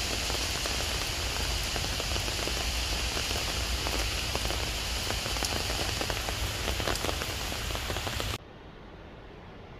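Steady rain falling on leaves and a wet paved path: a dense, even patter with many individual drop ticks. Near the end it cuts off abruptly, leaving a much quieter steady hiss.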